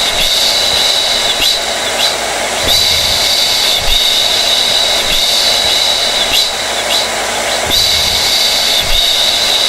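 Hair dryer (blow dryer) running steadily: a continuous rush of air with a high motor whine, wavering slightly about once a second.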